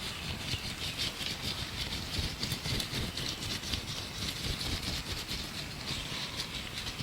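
Gloved hands rubbing, crinkling and tapping close to the microphone in a dense, continuous crackle, with birds chirping in the background.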